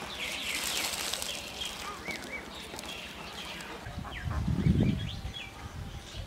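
Small birds chirping in short notes that rise and fall, scattered throughout, over a hiss of water and plants being stirred near the start. About two-thirds of the way in comes a loud low rumble that lasts about a second.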